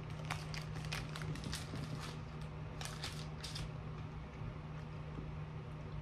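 Close-up chewing of a piece of candy: a run of small clicks and crackles for the first few seconds, then quieter, over a steady low hum.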